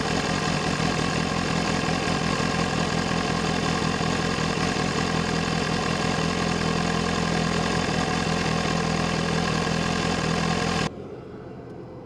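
BMW S1000RR's inline-four engine running steadily with no revving, then cutting off abruptly about eleven seconds in, leaving only a faint hiss.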